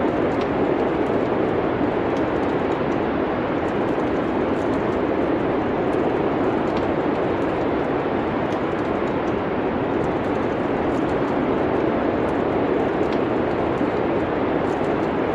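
Steady wind noise, like a winter storm, with the faint, scattered crackle of a wood fire in a fireplace.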